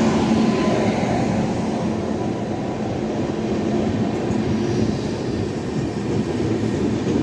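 A train passing through a station at speed without stopping: a loud, steady rumble of wheels and coaches.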